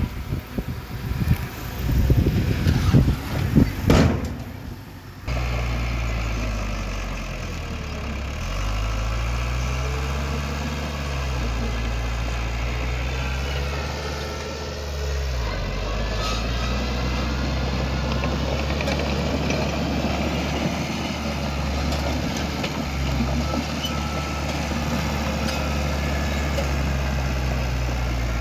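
Diesel engine of heavy earth-moving machinery running, its pitch rising and falling as it works under changing load. It is preceded by a few seconds of rough, uneven noise that gives way abruptly to the steady engine drone about five seconds in.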